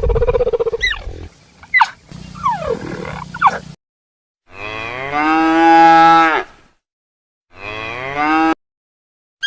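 Cow mooing: one long drawn-out moo about halfway through and a shorter one near the end, in abruptly cut clips. The first few seconds hold other, mixed sounds with sliding pitches.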